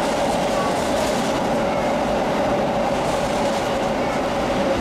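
Red Keikyu electric train running past along the platform: steady running noise with a constant mid-pitched tone.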